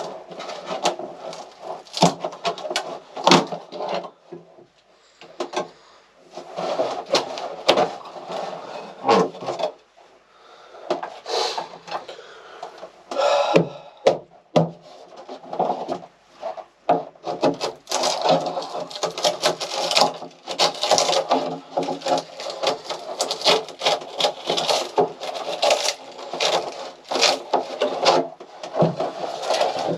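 Wooden interior fittings of a small sailboat being pried, knocked and broken out: irregular knocks, cracks and scraping of wood, with a few short pauses.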